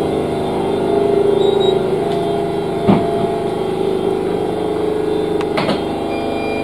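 Steady hum of an electric train heard inside the car, with a single knock about three seconds in and a couple of light clicks near the end.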